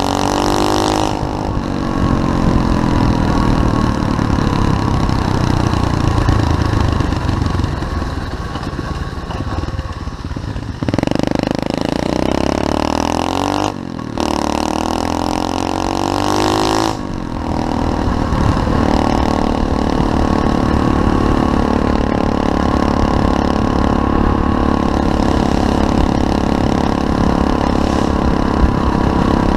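SSR 125cc pit bike single-cylinder four-stroke engine running and revving while being ridden, its pitch rising and falling with the throttle. The sound changes abruptly a few times.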